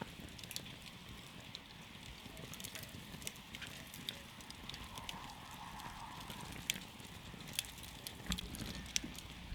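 Campfire burning, with irregular crackles and sharp pops of the burning wood over a steady hiss of the flames.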